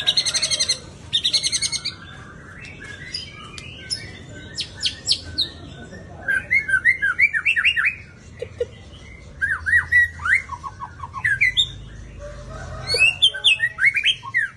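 White-rumped shama singing a varied song: two fast rattling trills at the start, then bursts of quick rising and falling whistled notes with short pauses between phrases.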